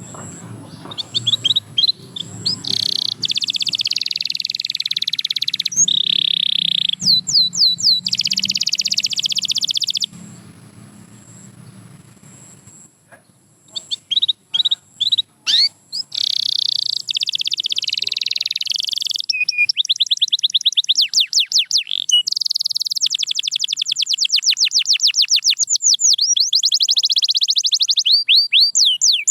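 Domestic canary singing: fast trills and rolls of rapidly repeated high notes and quick sweeping phrases. The song breaks off for a few seconds about a third of the way in, then resumes with long, rapid trills.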